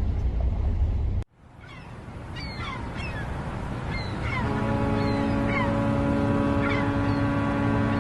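A low engine-like rumble cuts off abruptly about a second in. Birds then chirp with short falling calls, and about halfway through a long, steady horn blast begins, several tones sounding at once, like a ship's horn.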